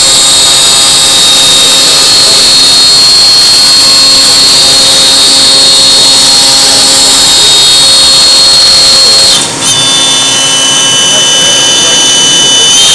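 CNC router spindle running at speed: a loud, steady high-pitched whine over a wide hiss. About nine and a half seconds in it dips briefly and comes back with a changed set of whining tones.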